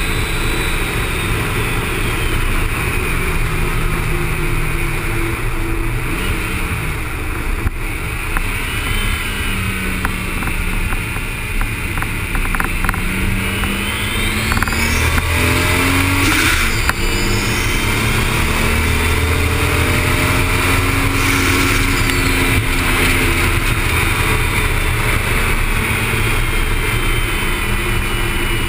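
Toyota Supra's engine running hard at track speed, its pitch rising and falling repeatedly as it accelerates and slows through corners, over steady wind and road noise.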